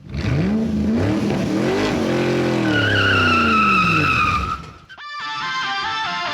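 Car engine revving up and back down, with tires squealing partway through. About five seconds in it cuts to guitar-led music.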